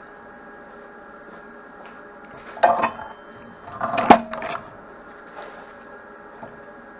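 Metal clanking and clattering twice, about two and a half and four seconds in, a short ringing after each strike, over a steady electrical hum.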